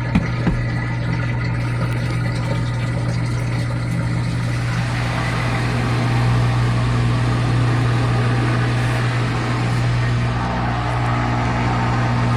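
The GE Spacemaker laundry center's washer drain pump runs with a steady hum, draining the wash water. A rushing, gurgling sound swells about five seconds in, and a couple of clicks come right at the start.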